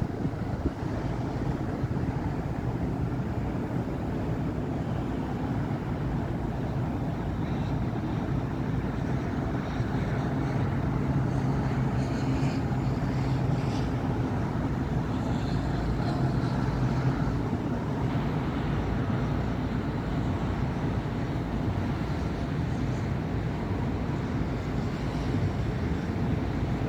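Steady city road traffic: cars and buses passing with constant engine and tyre noise. A heavier vehicle's low engine drone stands out from about ten to seventeen seconds in.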